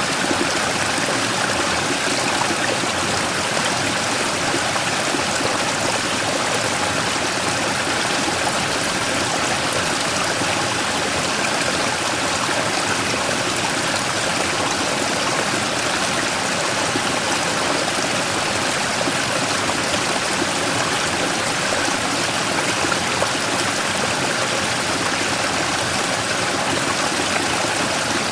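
Mountain stream flowing steadily over and around a large rock, a continuous rushing and splashing of water.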